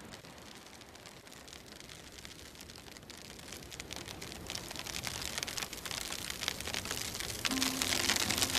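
Rain falling on a surface, fading in and growing steadily louder, with held music tones coming in near the end.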